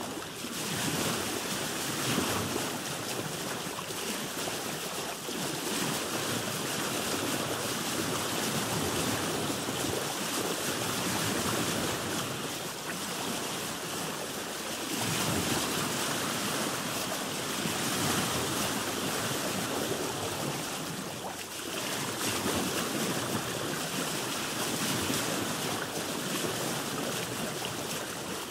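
Sea waves washing against a boat: a continuous rushing hiss that swells and eases every few seconds.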